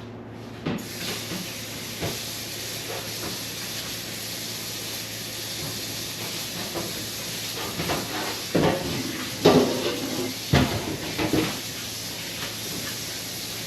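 A steady hiss starts suddenly about a second in and runs on, under scattered knocks and clatter of objects being handled, the loudest cluster coming in the second half.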